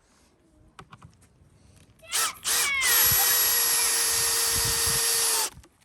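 A power tool runs steadily for about three seconds after a short first burst, then cuts off suddenly.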